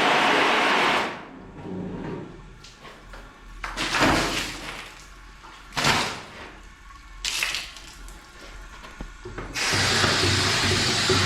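A loud, steady machine noise stops about a second in. After a quieter stretch with a few short knocks, it starts again near the end.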